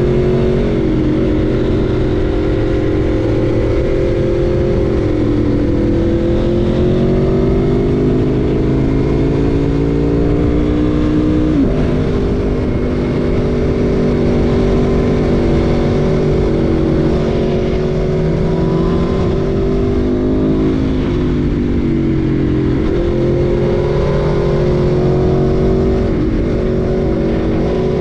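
Aprilia Tuono V4 1100's V4 engine running under way, its pitch climbing and falling with the throttle. A few short breaks in the note mark quick gear changes.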